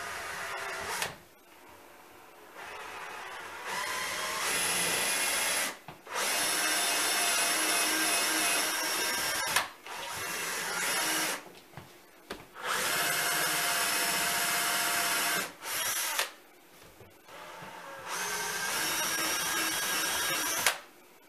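Electric drill boring holes through wood, its motor whining in about half a dozen runs of one to four seconds each with short pauses between, the pitch stepping up or down as the trigger is squeezed.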